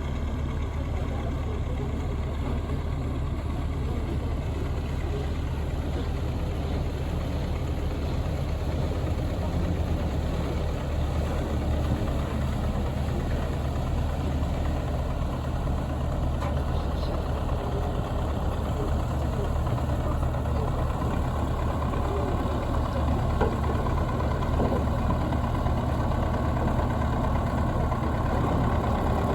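Steady low drone of the cruise ship's engines heard on board a river passenger motor ship under way, with a steady hiss over it.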